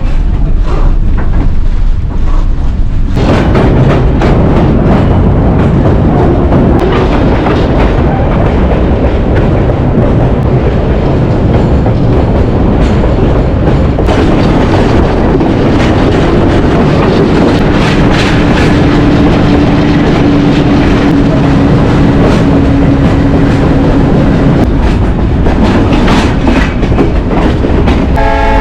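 Train running on the rails: a steady rumble with the clatter of wheels over the track, growing much louder about three seconds in. A steady hum joins for several seconds past the middle.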